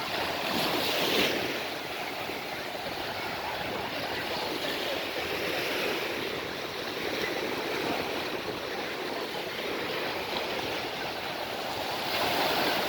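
Sea waves washing onto the shore in a steady rush, with a louder surge about a second in and another near the end.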